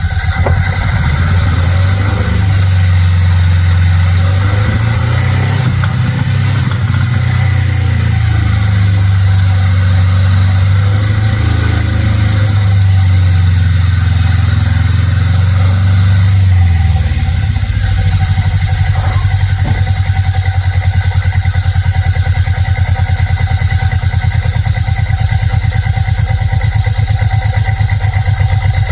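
Chevy S-10 pickup's engine running. Its pitch rises a little a few seconds in, then about two-thirds of the way through it drops to a lower, evenly pulsing idle.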